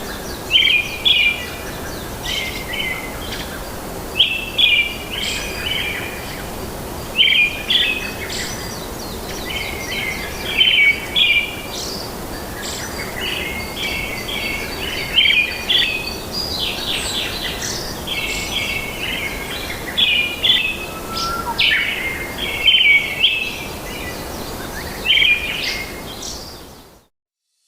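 A bird singing short chirping phrases over and over, a second or two apart, over a steady background hiss. It fades out near the end.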